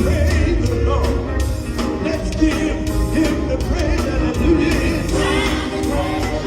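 Live gospel quartet performance: a band with bass and drums playing under singers, voices holding and bending long notes in harmony.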